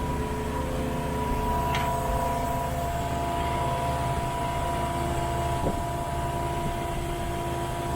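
Rainman portable watermaker's high-pressure pump running steadily alongside the sailboat's engine under way: a constant mechanical drone with a steady whine. The unit is mid-run, making fresh water.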